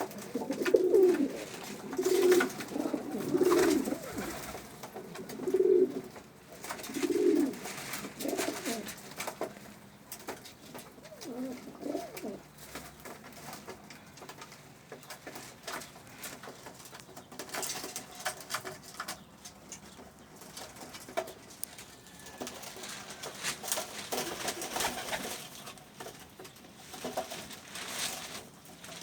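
Domestic pigeons cooing in a loft, a string of low coos in the first several seconds that thins out to fainter, occasional coos, with light rustling and clicks from the birds moving.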